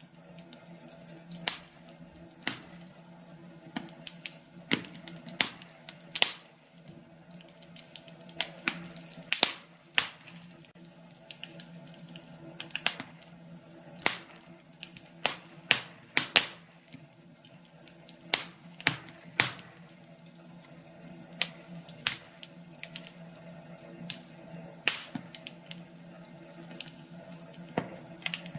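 Wood fire crackling: irregular sharp pops and snaps, several a second, over a faint steady low hum.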